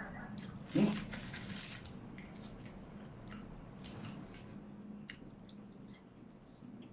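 Close-miked chewing of a mouthful of sushi, with wet mouth smacks and clicks and a short hummed "mm" about a second in.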